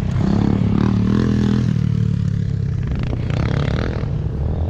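Single-cylinder enduro motorcycle engine, a bored-out Honda XR250 Tornado, running at low revs with a brief small rise in revs about a second in, then settling, with some clattering.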